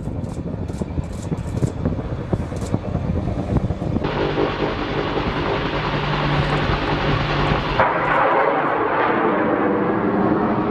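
AH-1 Cobra attack helicopter running, its rotor beating low at first. The sound changes abruptly about four seconds in to a louder, steady rush of turbine and rotor noise, and again near eight seconds.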